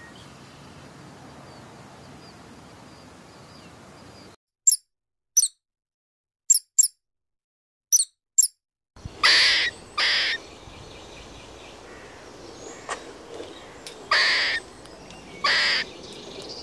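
A faint steady hiss, then six short high-pitched squeaks from a pet rat, then four loud rasping calls from a grey squirrel, each about half a second long, two close together and two later.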